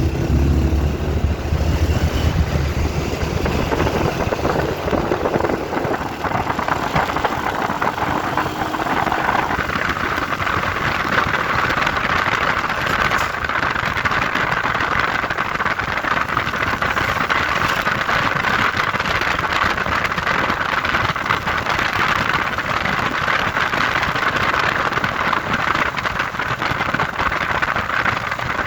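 Truck engine running, with a deep low drone for the first few seconds that gives way to a steadier, higher drone from about ten seconds in.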